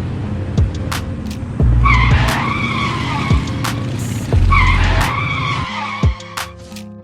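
Cartoon sound effects of a motorbike's tyres skidding and squealing, repeated about every three seconds, each skid with a deep thump, over background music.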